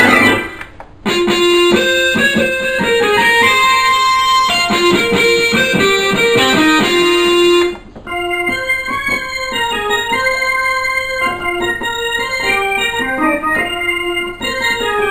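Electronic keyboard played to try out its built-in sounds: a melody with chords in one voice, then after a brief break about halfway through, a second passage in a different voice.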